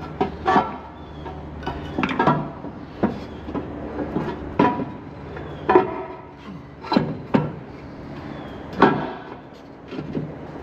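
Irregular clanks and knocks of metal parts and tools being handled during engine assembly, a dozen or so sharp hits, some with a brief ring.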